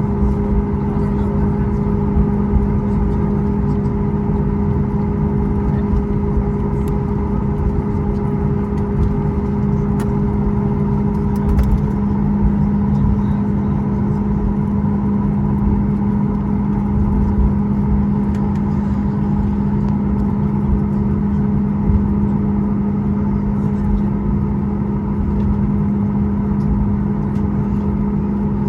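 Cabin noise of a Boeing 737 MAX 8 in operation: the steady drone of its CFM LEAP-1B jet engines heard from inside the cabin, a constant rushing noise with a steady hum whose pitch shifts slightly about twelve seconds in.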